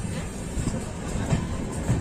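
Passenger train running at speed: steady rumble of the coach with a few clacks of the wheels over rail joints.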